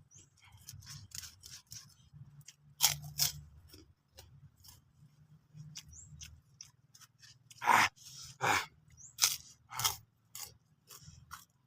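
A person chewing crunchy raw, unripe papaya close to the microphone: irregular crisp crunches, loudest about three seconds in and again in a cluster around eight to nine and a half seconds.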